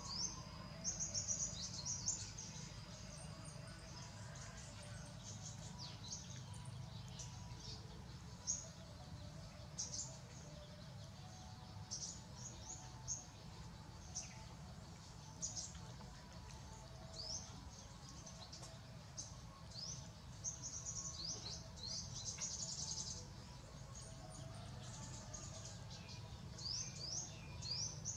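Birds chirping: many quick, high, rising chirps, scattered and thickest near the end, over a low steady rumble.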